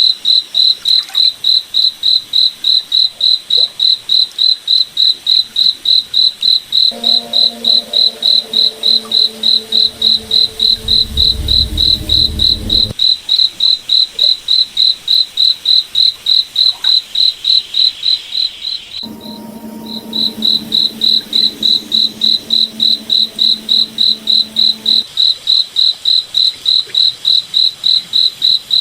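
A cricket chirping in an even, high-pitched pulse of about three or four chirps a second, stopping for a moment about two-thirds of the way in. Twice a low, steady hum of several tones rises under it for some seconds, the first time with a deeper rumble beneath.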